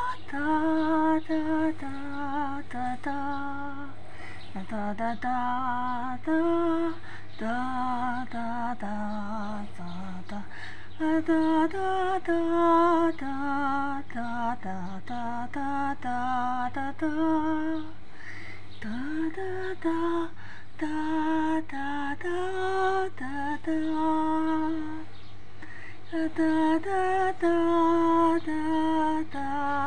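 A woman singing an improvised wordless melody on open syllables like "da", in short held notes that step up and down in pitch.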